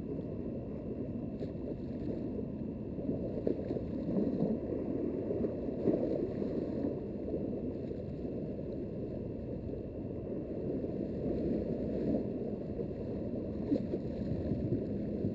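Steady low rumble of water and wind around a small boat, with faint irregular splashes.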